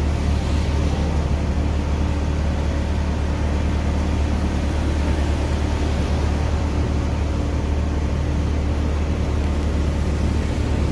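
Fire truck's engine running steadily, a deep even drone with no change in pitch.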